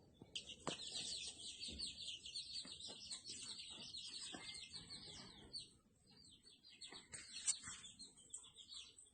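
Small birds chirping in fast, dense high-pitched runs, faint, with a short lull past the middle before scattered chirps resume.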